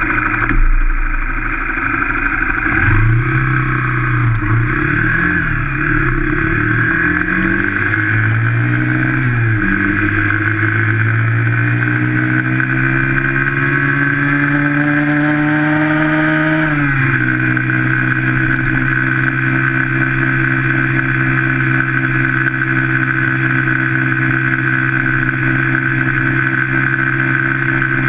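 Yamaha Factor 125's fuel-injected single-cylinder four-stroke engine under hard acceleration. The revs rise and dip a few times, then climb steadily for several seconds. They drop suddenly about seventeen seconds in with a gear change, then hold steady at high speed.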